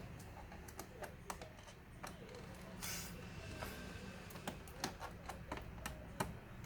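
Scattered small clicks and taps of screws and a screwdriver being worked on a laptop's plastic bottom case, with a brief scraping rustle about three seconds in.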